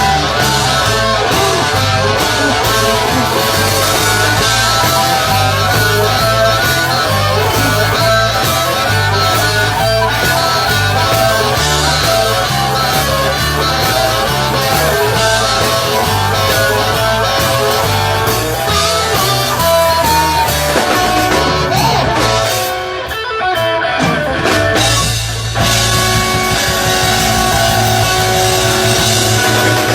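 Rock band playing an instrumental passage: guitar playing quick runs of notes over bass and drums. About three-quarters of the way through, the bass and drums briefly drop out, then come back in.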